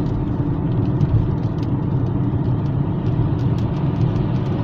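Steady road and engine rumble of a car driving, heard from inside, with scattered light ticks of raindrops hitting the car.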